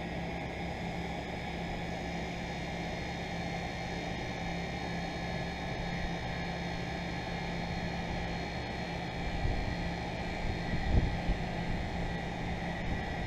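2001 York 2.5-ton central air conditioner running steadily just after start-up: a constant hum with fan noise. A few low thumps come about ten seconds in.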